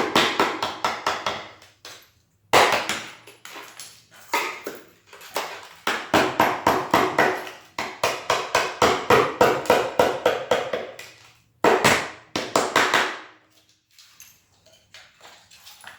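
Rapid hammer blows on a chisel, chipping out a broken ceramic floor tile and its adhesive: quick runs of sharp strikes, about five or six a second, in bursts separated by short pauses.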